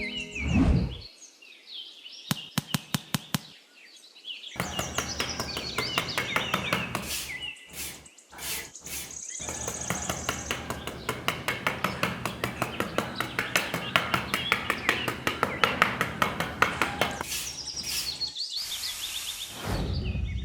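Birds chirping, with a rapid, even clicking running through most of the middle.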